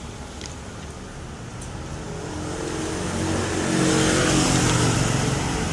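A motor vehicle's engine growing louder, loudest about four seconds in, then easing off.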